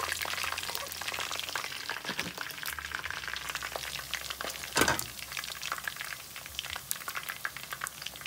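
Chicken pieces frying in shallow oil in a pot, a steady sizzle full of small crackles and pops. A fork turning the pieces knocks against the pot, with one sharper clink about five seconds in.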